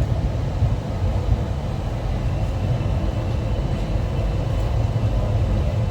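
Passenger train running along the track, a steady low rumble.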